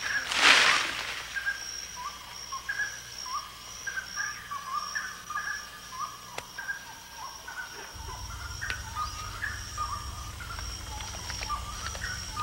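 Rainforest ambience: a steady high insect drone with many short chirping calls repeating throughout. A brief loud burst of noise comes about half a second in.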